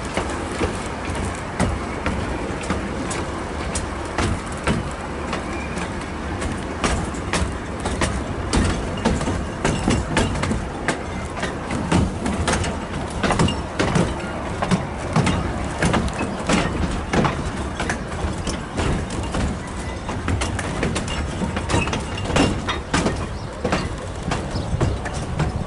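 Narrow-gauge passenger train running along the track, a steady rumble with irregular sharp clicks and knocks from the coach wheels on the rails. The clicks come thickest in the middle stretch.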